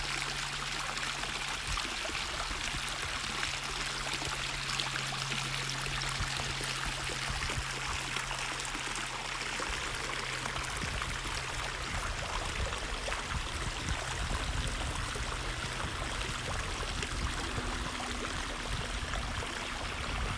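Stream water flowing steadily, an even rushing hiss.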